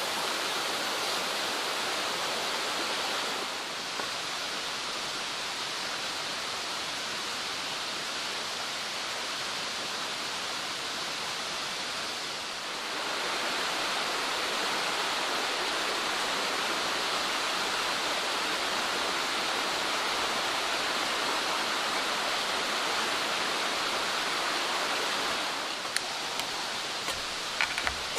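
Mountain stream rushing steadily. It drops a little in level a few seconds in and comes back up about halfway, and a few light clicks sound near the end.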